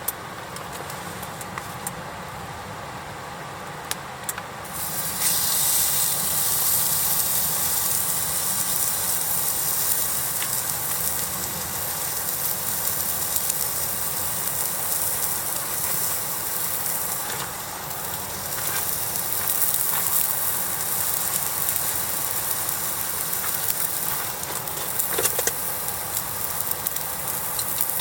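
Food sizzling on a hot iron plate over a campfire, a loud steady hiss that sets in suddenly about five seconds in, with scattered crackles.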